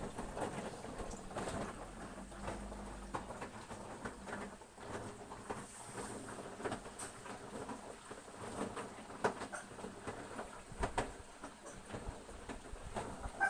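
Whirlpool front-load washing machine running, with irregular clicks and light pattering throughout and a low hum near the start.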